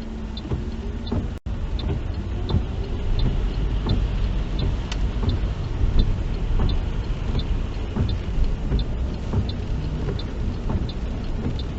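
Car cabin noise while driving: a steady engine and road rumble, with a light, regular ticking about twice a second throughout.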